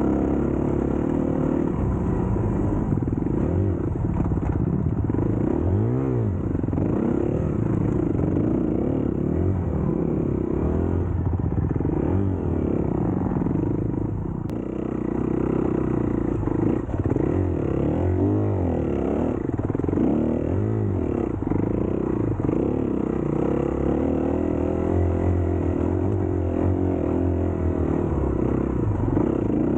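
Dirt bike engine being ridden hard, its pitch climbing and dropping again and again as the throttle is opened and closed, with rattling from the bike over rough ground.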